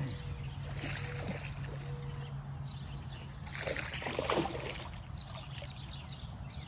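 Water splashing and sloshing around a small boat, with a louder splash about four seconds in, over a steady low hum.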